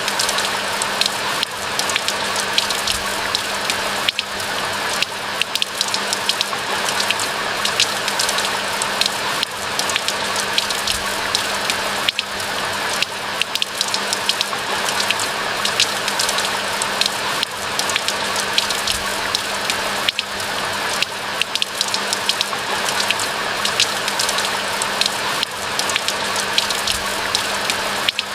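Steady rain: a dense hiss of falling water with many separate drops pattering.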